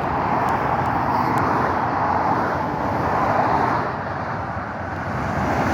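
Road traffic passing at speed: a steady rush of tyre and engine noise that swells a little as a vehicle goes by about three and a half seconds in, then eases.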